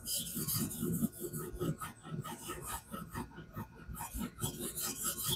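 Knife blade scraping along a whetstone in a guided fixed-angle sharpener, a quick run of back-and-forth strokes that starts suddenly.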